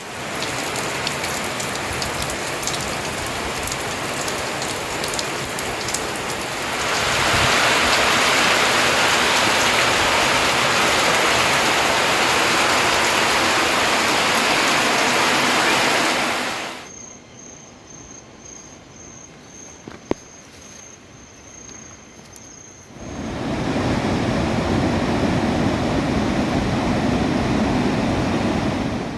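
Steady rush of heavy rain, growing louder about seven seconds in and breaking off abruptly after about seventeen seconds. In the quieter gap an insect trills on one high, pulsing note, then a deeper rush of rain or running water comes back for the last six seconds.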